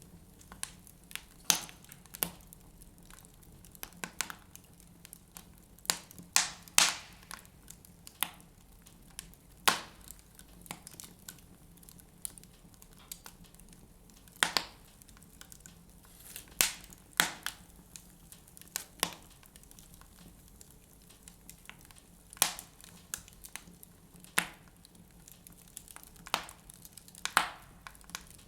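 Wood fire burning in a fireplace, crackling with irregular sharp pops every second or two, some much louder than others.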